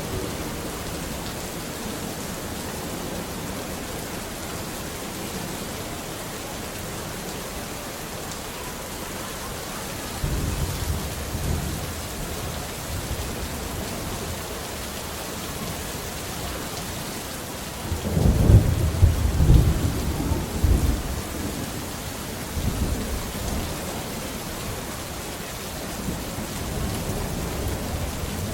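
Steady rain with rolling thunder: a low rumble about ten seconds in, a louder, longer one from about eighteen to twenty-one seconds, and further rumbles near the end.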